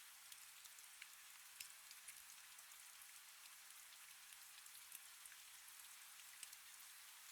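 Soft, steady rain: an even hiss with scattered individual drops ticking.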